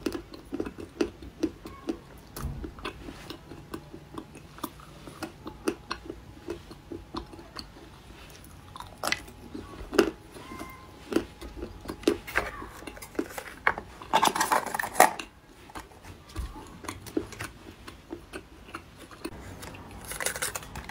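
Close-miked chewing and wet mouth clicks of someone slowly eating a small strawberry-flavoured flower-shaped sweet. There is a brief louder noisy patch about two-thirds of the way through, and cardboard gift boxes are handled near the end.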